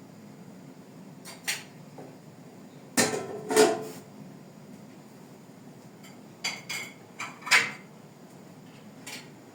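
Kitchenware clinking and clattering in a series of sharp knocks: a few near the start, a loud pair about three seconds in, a cluster of four around six and a half to seven and a half seconds, and a faint one near the end. A steady low hum lies underneath.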